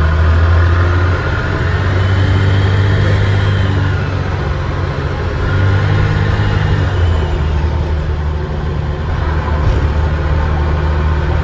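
Dennis Trident double-decker bus's diesel engine pulling hard under way, heard from on board, with a turbocharger whistle that rises and falls twice.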